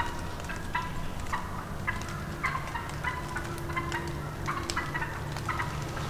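Birds calling in a flock, many short calls repeated several times a second, over a steady low hum.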